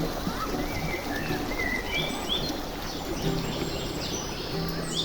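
Birds chirping in a run of short, rising calls over steady outdoor background noise.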